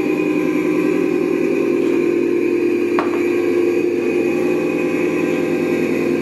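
Steady whir of a small motor running at constant speed, with a single faint click about three seconds in.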